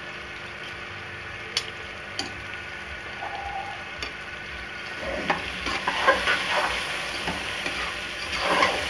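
Grated carrots sizzling in ghee in a metal pot, with a few sharp taps of a metal spoon against the pot. From about five seconds in, a metal spatula stirs and scrapes through the carrots, louder: the carrots being fried in ghee for gajar ka halwa.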